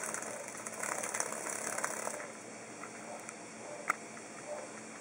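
A cicada's buzzing rattle in irregular bursts as it is batted about, dying away about two seconds in; a single sharp tick follows a couple of seconds later.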